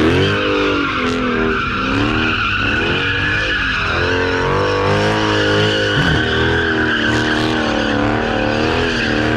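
A car engine revving hard, its pitch rising and wavering up and down, while the tyres squeal steadily in a burnout.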